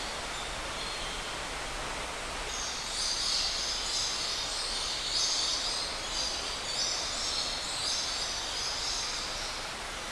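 Steady rush of falling water from an indoor aviary waterfall, with many birds calling high and busily over it from about two and a half seconds in until near the end.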